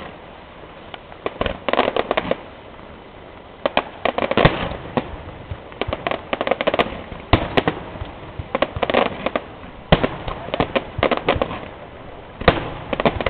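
Fireworks display: volleys of sharp bangs and crackling bursts going off in clusters every second or two.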